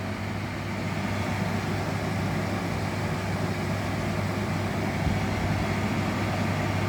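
SHINCO portable air conditioner running: a steady fan noise over a low, constant hum, growing slightly louder over the first couple of seconds as the compressor kicks in.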